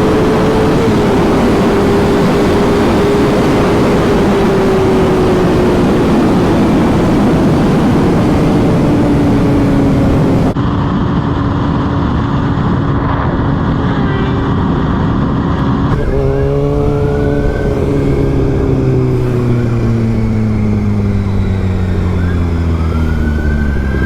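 Sport motorcycle riding at speed, heard under heavy wind rush. The engine note holds and then sinks slowly. The sound changes abruptly twice, about ten and sixteen seconds in, and after the second change the engine's pitch falls steadily as the bike slows.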